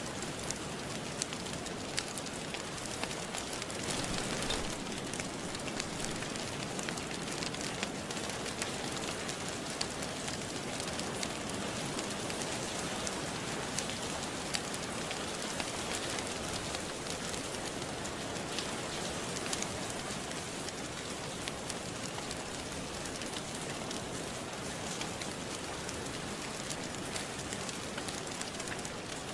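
Steady rain hiss with scattered sharp crackles and pops from a wood fire in a fireplace; the rain swells briefly about four seconds in.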